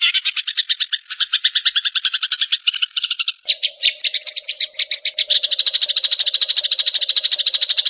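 Fast, rattling chatter of a small songbird, a run of rapid notes at about ten a second. A little past halfway the pattern changes and a steady lower hum joins it.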